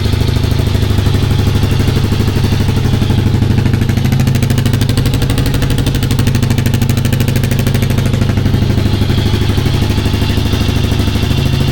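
Kawasaki KLR 650's single-cylinder engine idling steadily through a newly fitted aftermarket exhaust, running with an even beat.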